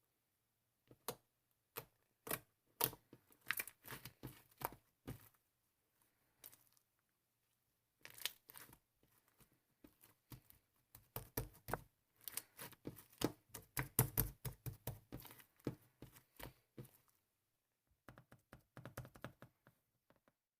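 Irregular crinkling and tearing handling noises made of clusters of sharp crackles and clicks, with a pause of about two seconds a third of the way in and the busiest stretch just past the middle.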